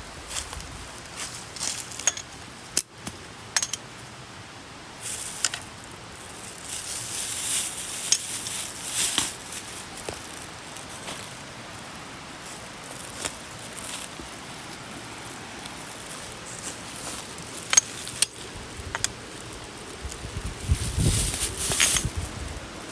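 Camping gear being handled: scattered light metallic clinks and knocks with bursts of rustling, louder rustling around seven to nine seconds in and again near the end.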